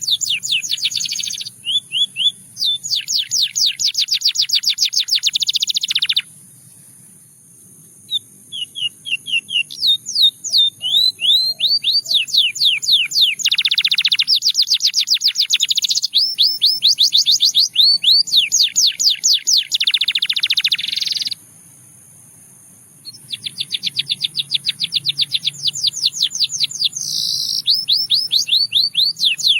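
Canary singing in long, fast trills of repeated high notes, each run at a steady rate before switching to a new phrase. The song breaks off twice for about two seconds, roughly a quarter and three-quarters of the way through.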